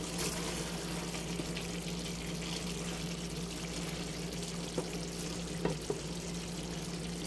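Chicken adobo sizzling and bubbling in its soy-vinegar sauce in an aluminium pan on a hot plate: a steady hiss, with a few light taps of a wooden spatula against the pan about five and six seconds in. A steady low hum runs underneath.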